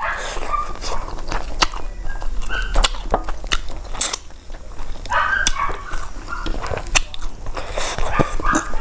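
Close-miked chewing of a mouthful of rice and curry eaten by hand, with frequent wet lip smacks and mouth clicks and short squelchy sounds.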